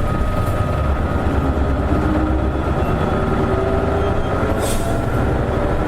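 Isuzu Erga city bus's diesel engine running under load as the bus pulls away, heard from inside the cabin: a steady low rumble with shifting tones. There is a brief rattle near the end.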